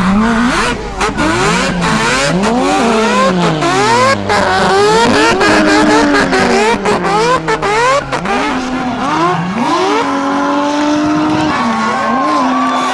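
Several racing car engines, running on 130-octane aviation fuel, revving up and down at once, their pitches crossing, with many short sharp cracks over the first two-thirds. Near the end it settles into a steadier engine note.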